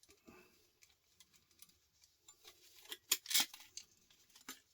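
Plastic casing of a small electronic device being pulled apart by hand: scattered small clicks, then a sharp snap and a short crack about three seconds in, with a few more clicks after.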